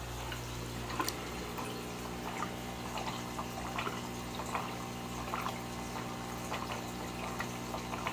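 Aquarium water bubbling and trickling, with small irregular pops over a steady low hum.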